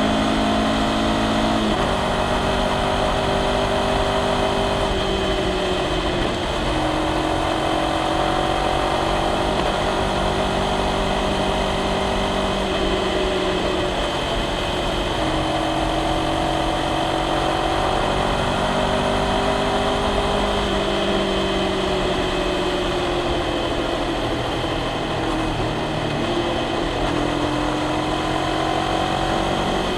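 Honda CBR500R's parallel-twin engine and exhaust running at moderate revs while riding, the pitch easing up and down with a few sudden steps, over a steady haze of road noise.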